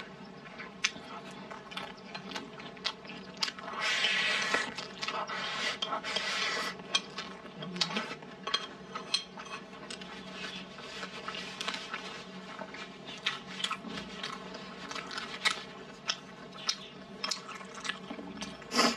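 Close-up chewing of cured pork and rice, with wet mouth clicks and smacks several times a second and two longer rasping stretches around four and six seconds in.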